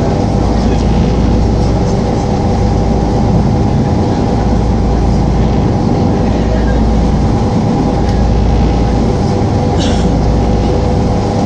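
Boat engine running at a steady drone: a constant low hum with a couple of steady tones above it.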